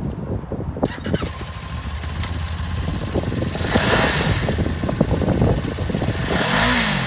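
2018 Kawasaki Ninja 400's liquid-cooled parallel-twin engine idling, revved up and back down twice: about four seconds in and again near the end.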